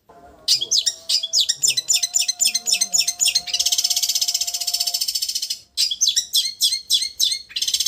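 Long-tailed shrike singing: rapid high chattering phrases alternating with a long, very fast buzzing trill, broken by two short pauses.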